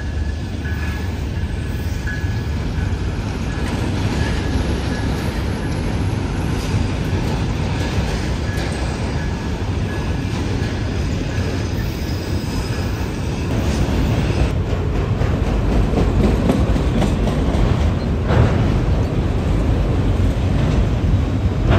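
Freight train of autorack cars rolling past, a steady rumble of steel wheels on rail with fine clattering, getting louder about two thirds of the way through.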